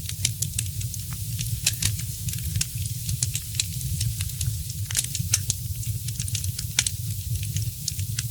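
Wood fire in a fireplace crackling, with many sharp irregular pops several times a second over a steady low rumble.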